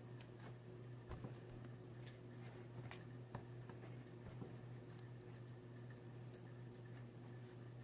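Faint, scattered little clicks and taps from slime and containers being handled, over a steady low hum.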